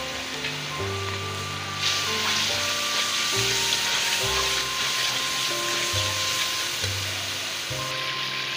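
Tomato-onion masala with freshly added spice powders sizzling in oil in a metal pan while a steel spoon stirs it. The sizzle gets louder about two seconds in and eases slightly near the end. Background music with held notes plays throughout.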